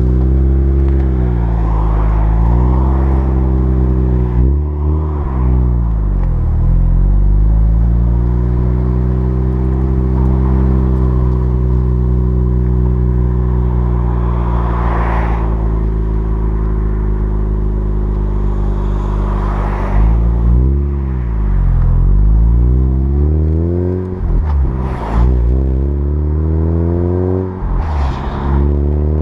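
Mazda RX-8's street-ported two-rotor Renesis rotary engine running through a Japspeed catback exhaust after a cold start. Its idle is mostly steady but sags and picks back up several times, most often in the last third.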